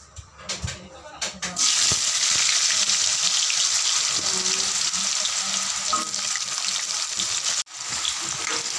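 Raw sweet potato sticks dropped into hot cooking oil in a wok: a few clicks and knocks, then loud frying sizzle starting abruptly about a second and a half in and running on steadily. Near the end it cuts out for an instant and comes back a little quieter as a spatula stirs the sticks.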